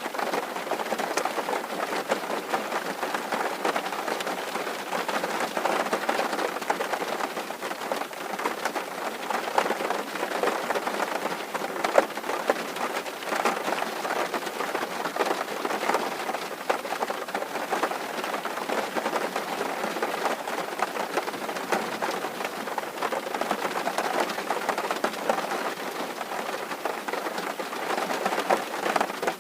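Steady rain drumming on a tin roof, a dense patter of drops on sheet metal, with one sharper drop about twelve seconds in.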